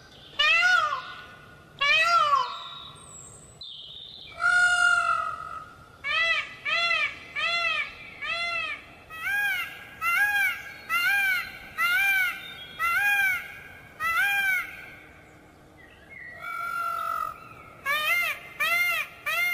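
Indian peacock calling: a few longer calls at first, then a long run of short, rising-and-falling calls one every half-second to second, with a brief lull about three-quarters of the way through before the run starts again.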